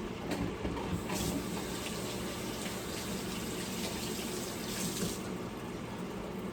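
Water running in a steady stream, louder from about one to five seconds in, over a steady hiss.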